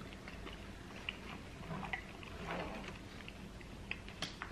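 Quiet eating sounds: faint chewing with scattered small mouth clicks and lip smacks, and a couple of brief soft hums about two seconds in.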